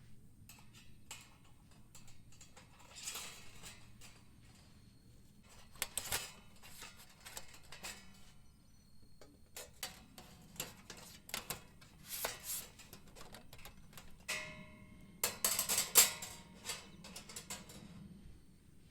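Cookware and utensils being handled at a campsite: scattered light clicks, knocks and clatter, with a short ringing metal clink a little past the middle and a cluster of louder knocks soon after.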